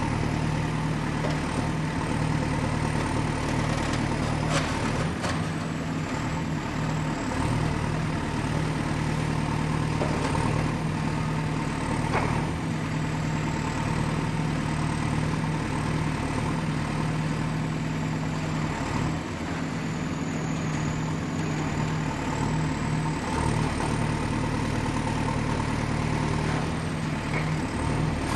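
Excavator's diesel engine running steadily, with a few knocks about four to five seconds in and again near twelve seconds, and a faint high whine that wavers slowly in pitch.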